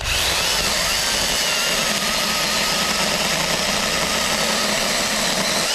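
Cordless 20-volt Saker mini chainsaw running under load, cutting through a tree limb, with a steady motor and chain noise and a faint wavering whine. It starts suddenly and stops suddenly near the end, when the cut is done.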